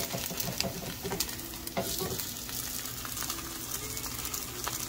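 Cornmeal-and-cheese arepas sizzling and crackling in hot oil in a nonstick frying pan. A plastic spatula scrapes and slides under them a few times, most strongly between one and two seconds in.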